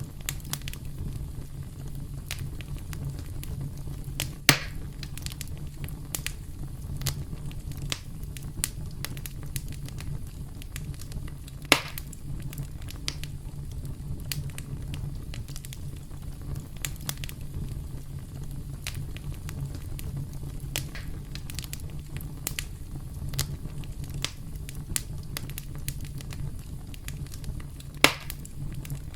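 Campfire crackling: a steady low rumble with frequent small sharp crackles and three louder pops spread through.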